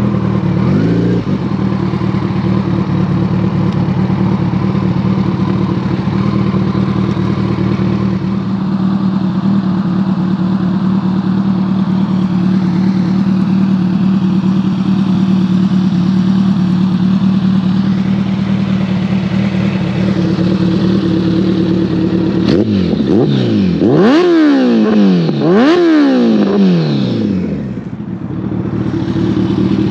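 2014 Kawasaki ZX-14R's inline-four engine through a full Brocks Alien Head 2 exhaust, running at a steady cruising note. About three-quarters of the way in it revs up sharply and falls away twice in quick succession, then briefly drops off before settling back to a steady note near the end.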